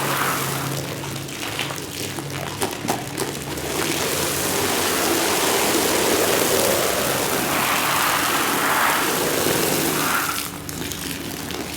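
Water spraying and splashing onto a wet rug, a steady hiss, with a few sharp clicks about two to three seconds in and a low machine hum underneath.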